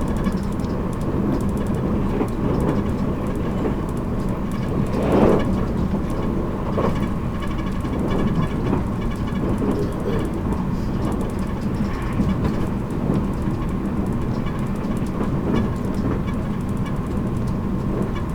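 JR Kyushu 783 series electric train running at speed, heard from inside motor car MoHa 783-13: steady rolling and motor noise with a low hum and a steady tone above it. There is a brief louder swell about five seconds in.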